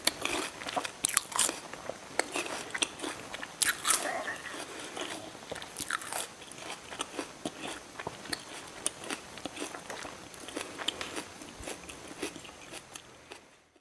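Close-miked chewing and biting of crisp, juicy bilimbi (belimbing wuluh) fruit in spicy rujak sauce: irregular wet crunches and mouth clicks, dying away near the end.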